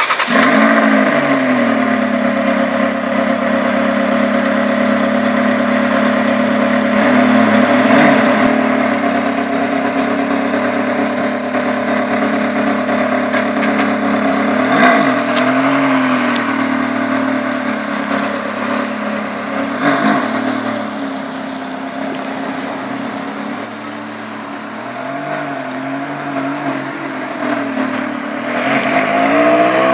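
Ferrari 360 Challenge Stradale's 3.6-litre V8 fires up and settles into a steady idle, with a few short throttle blips. Near the end the revs rise as the car pulls away.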